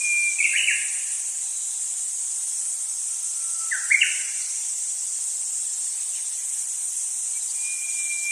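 Nature-ambience soundtrack: a steady high-pitched hiss like insects, with two bird calls, each a held whistle breaking into a quick chirp, just after the start and about four seconds in.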